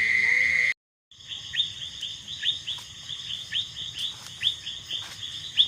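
Night chorus of kuliglig (crickets and other night insects). A steady high drone runs until just under a second in, then after a brief gap comes a dense run of short, high chirps, several a second.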